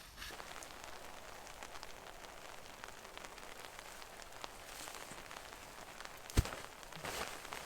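Steady rain falling, with many faint scattered drop ticks. One sharp, loud crack about six seconds in.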